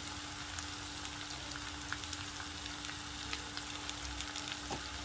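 Diced potatoes, onions and carrots sautéing in a stainless steel pan, sizzling steadily with small scattered crackles. A faint steady hum runs underneath.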